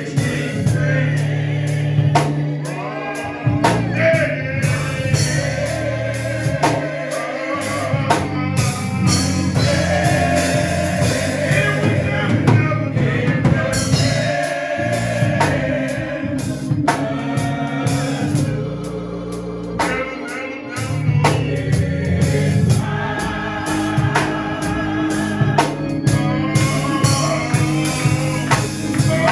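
Gospel song with voices singing over a live band: a drum kit keeping a steady beat and a bass line underneath.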